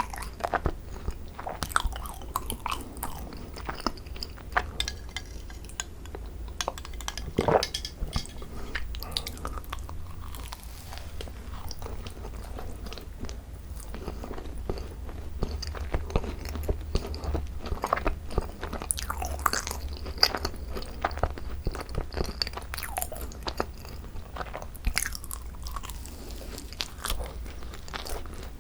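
Close-miked chewing and biting of thick-filled Korean macarons (ttungkaron): crisp shells crackling between the teeth amid wet mouth sounds, with sharp crunches scattered throughout.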